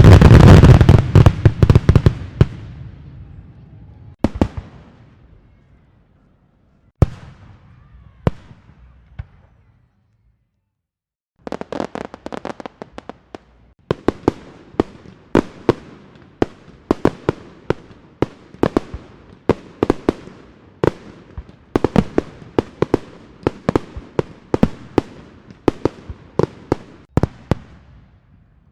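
Fireworks going off: a loud barrage of bangs that fades within a couple of seconds, then a few single bangs. After a short gap comes a long, irregular run of sharp cracks, a couple each second.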